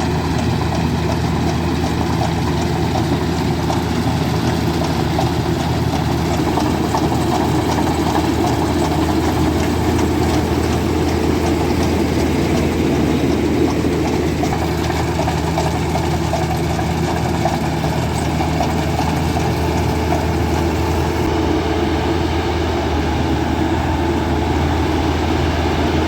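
Heavy farm machine's diesel engine running steadily at close range, a continuous deep hum with mechanical clatter over it.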